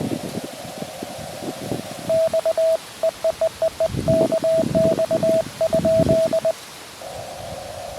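Morse code from a QRP Labs QMX transceiver: a single steady sidetone keyed in dots and dashes for about four seconds, starting about two seconds in. Before and after it, the receiver's narrow CW filter gives a steady band of hiss, which drops out while the rig is sending. Low rumbles of wind on the microphone run underneath.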